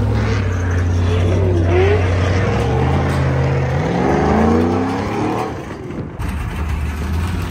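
Car engine running steadily, then its pitch climbs for about three seconds as it is revved or accelerates, before dropping back to a steady low run about six seconds in.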